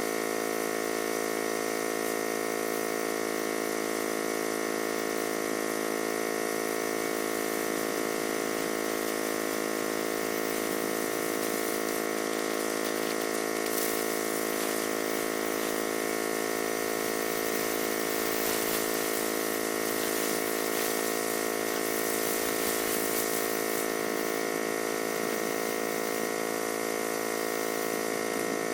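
Old Comet 5 HP single-cylinder diesel engine running at a steady speed, an even, unchanging hum.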